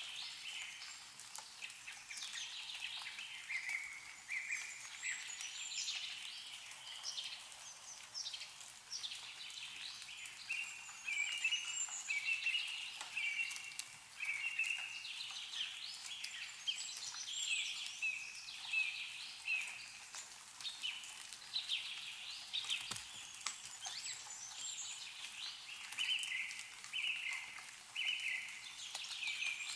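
Several songbirds chirping and trilling continually in short, high phrases, with faint drips of meltwater falling from snowy trees.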